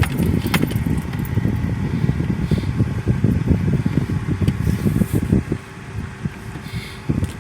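Car driving slowly, heard from inside: an uneven low rumble of engine and road noise, with a few light clicks and rattles.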